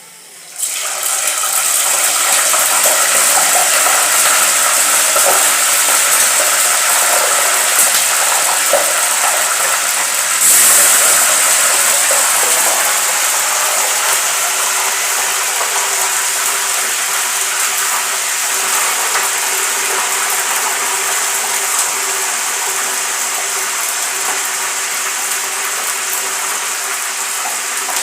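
Chicken pieces deep-frying in hot oil: a loud, steady sizzle that starts suddenly about half a second in and grows louder again about ten seconds in, as more pieces go into the oil.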